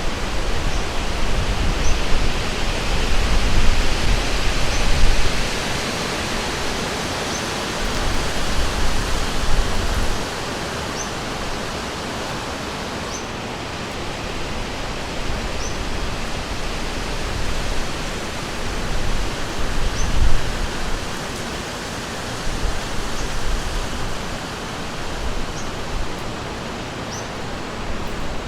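River water rushing steadily, with heavier low rumbling through the first ten seconds or so. A short high call repeats about once a second throughout.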